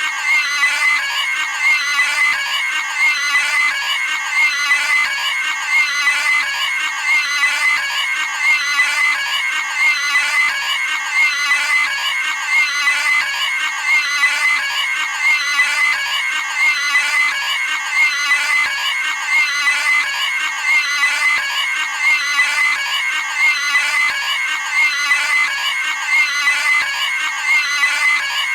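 Cartoon pig squealing: one short scream sound effect repeated back to back without a break, about once every second and a half.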